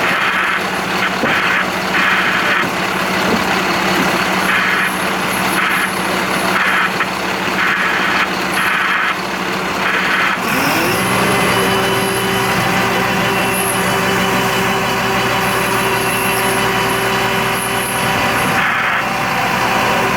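Diesel engine of a fire brigade turntable ladder truck running steadily. About halfway through it rises in pitch and holds a higher, steady speed, as when the engine is sped up to drive the ladder's hydraulics.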